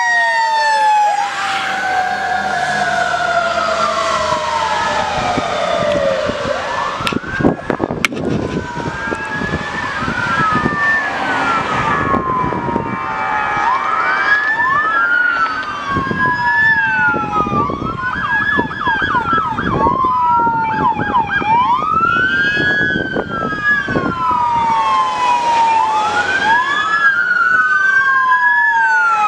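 Electronic wail sirens of a fire engine and police cars, several overlapping, each rising and falling in pitch every two to three seconds.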